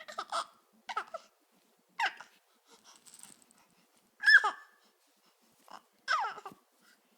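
Little girl giggling and squealing in short bursts, about five high calls that slide down in pitch, the loudest about four seconds in.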